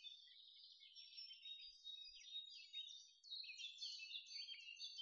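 Faint chirping of several small birds: many short, quick, overlapping high calls.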